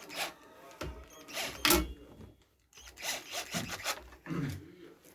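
Hand work on a chainsaw being taken apart: a string of short knocks, clinks and scrapes from tools and metal parts, at irregular gaps, with no engine running.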